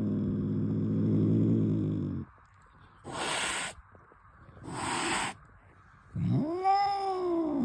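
Angry domestic cat: a low growl that trails off about two seconds in, two sharp hisses, then a rising and falling yowl sliding back into a growl near the end.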